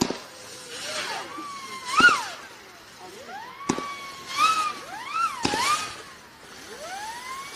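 Consumer firework (Crush City Fisherman) firing whistling shots: several overlapping shrill whistles that rise in pitch and then bend down, with a few sharp cracks between them.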